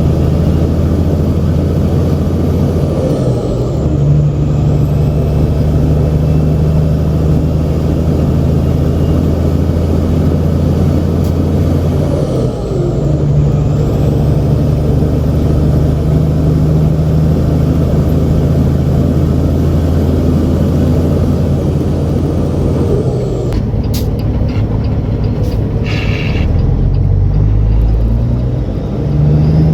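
Heavy semi truck's diesel engine pulling a loaded grain trailer down the road, running steadily, with its note changing three times as gears are shifted.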